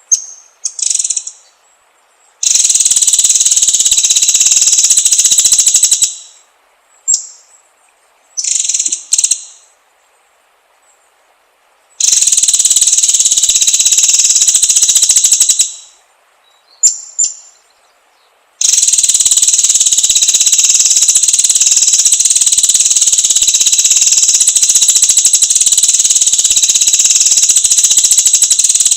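A high, steady insect drone from a forest sound track comes in three long stretches that start and stop abruptly, the last running on from about two-thirds of the way in. Short, high bird chirps come in the gaps between them.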